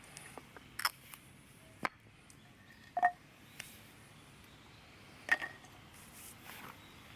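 A handful of sharp clicks and knocks from hard objects being handled. Two of them, about three and five seconds in, give a short ringing clink.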